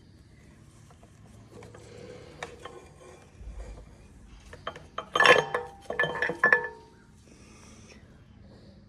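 Metal parts clinking and rattling as the camshaft is worked loose from a Kohler Command CV725 engine's crankcase, with a cluster of loud ringing clanks about five to seven seconds in.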